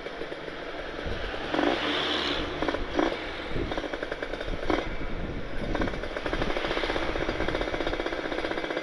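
Kawasaki Ninja 150RR two-stroke single-cylinder engine running on the move through an aftermarket Aitech carbon-kevlar exhaust with an R9 expansion chamber, a fast steady firing rattle with a few short louder spikes in the first half.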